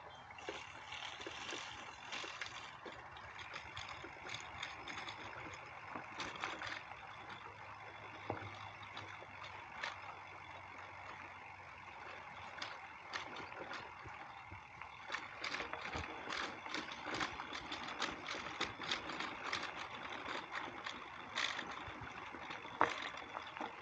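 Faint steady hiss of distant highway traffic, with many scattered light clicks and ticks over it, more of them in the second half.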